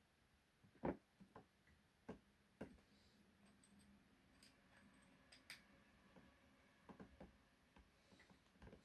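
Faint, irregular clicks and taps of small tools and plastic and metal parts being handled while working on an RC car, the loudest about a second in.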